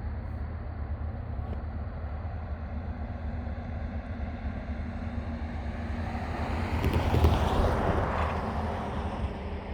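Steady low diesel rumble of a DeQueen and Eastern EMD GP40-2 locomotive idling. About seven seconds in, a louder rushing noise swells up and fades away again.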